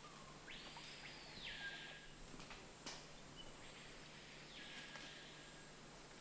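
Faint forest ambience with two short, hissy animal calls about three seconds apart, each rising at the start and falling away at the end, and a single sharp click between them.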